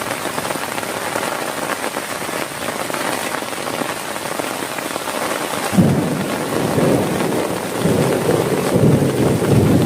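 Heavy rain falling steadily. About six seconds in, thunder cracks and rolls on in low rumbles.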